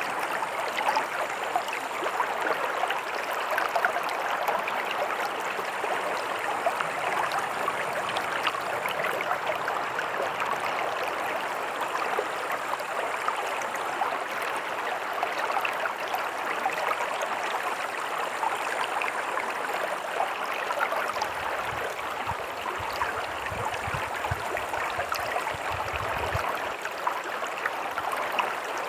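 Stream water running, a steady, unbroken rushing with a faint low rumble for a few seconds near the end.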